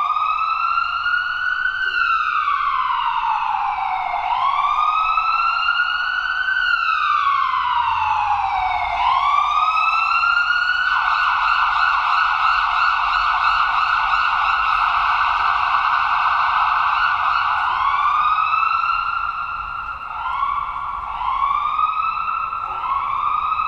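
Electronic emergency-vehicle siren wailing in slow rising and falling sweeps, switching about eleven seconds in to a rapid yelp, then to short rising whoops near the end.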